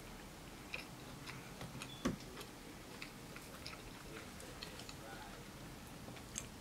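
Close-miked chewing of sushi: scattered small wet mouth clicks and smacks, with one louder low thump about two seconds in.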